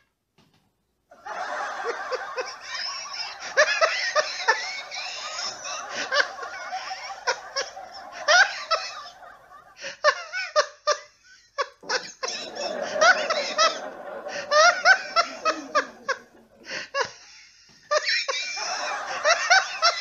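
Recorded people laughing hard in a series of separate laughter clips, broken by short pauses. It starts after about a second of silence.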